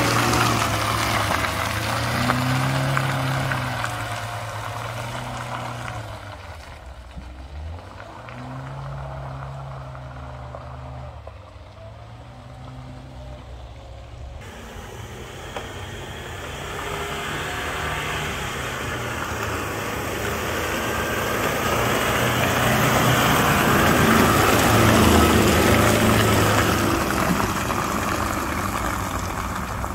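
A four-wheel-drive vehicle's engine revving up and down, easing off through the middle. Then a broad rushing noise swells, loudest near the end.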